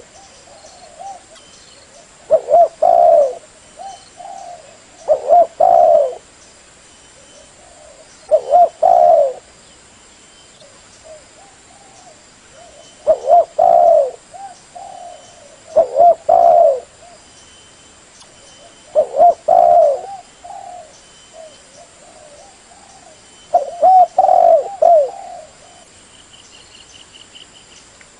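Spotted dove (terkukur) cooing: short phrases of a few rolling coos, about a second long, repeated seven times a few seconds apart.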